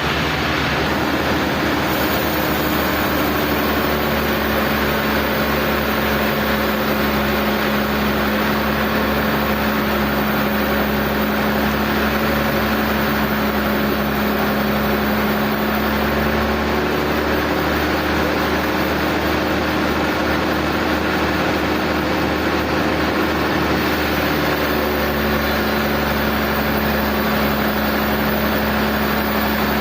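Sawmill machinery running steadily, a loud even drone whose low hum changes pitch a few times, around 4, 17 and 25 seconds in.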